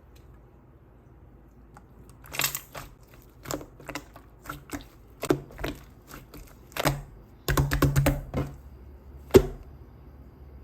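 Green slime being pressed and worked by hand, giving irregular crisp clicks and pops. A quick run of clicks comes near the end, then one sharp, loud pop.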